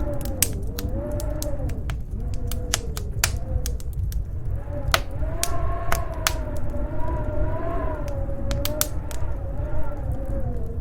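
Fire crackling with frequent sharp pops, over the low steady roar of a snowstorm wind that howls in a wavering tone rising and falling in pitch, the howl stronger in the second half.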